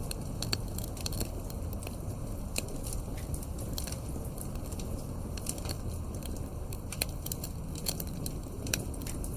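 Wood fire in a fireplace, crackling with frequent sharp irregular pops over a low steady rumble of the flames.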